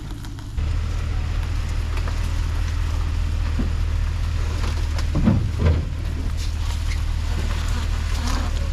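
Motor vehicle engine running with a steady low drone, briefly louder and changing in pitch a little past halfway.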